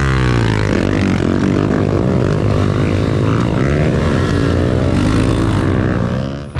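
Pit bike engine revving up and down as it is ridden, its pitch rising and falling repeatedly with the throttle and gear changes.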